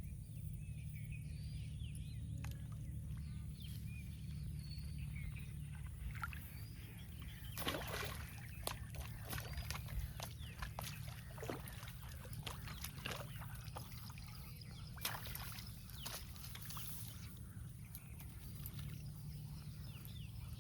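Small birds chirping over a steady low rumble, then a run of irregular sharp clicks and knocks from about seven seconds in until about seventeen seconds in.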